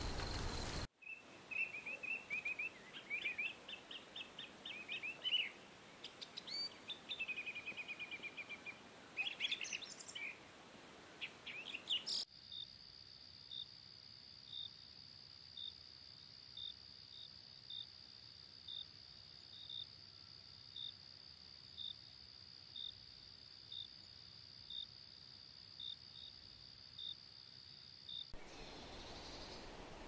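Small bird singing quick chirps and trills. About twelve seconds in this cuts off abruptly and a steady high-pitched drone takes over, with a short chirp about once a second.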